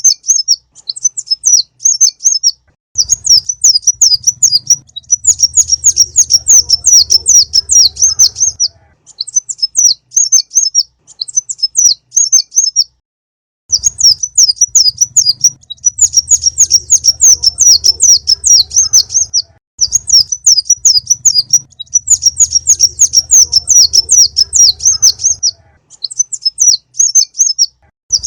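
Konin (Indonesian name for a sunbird) song played as a lure recording: loud, rapid, high-pitched twittering trills in bursts of one to five seconds with short pauses between. A low hum runs under the longer bursts.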